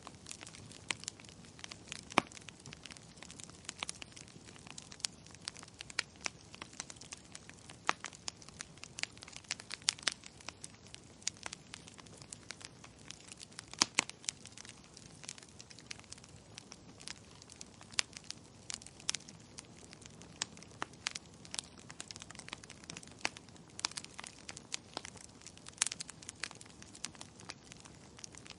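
Fire crackling in a fireplace: a soft steady hiss with frequent irregular sharp pops and snaps, a few of them much louder than the rest.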